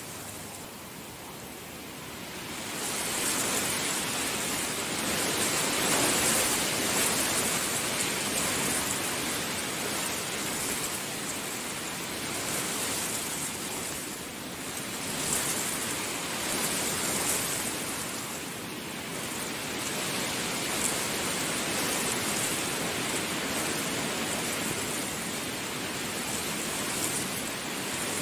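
Heavy rain falling as a dense, steady hiss that swells a couple of seconds in and then rises and falls in slow waves.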